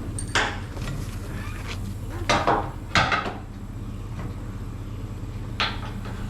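Sharp metal clanks and knocks at a horse trailer as a horse is loaded: hooves stepping onto the trailer floor and the trailer gear rattling. There are about four strokes, the loudest near the middle, over a steady low hum.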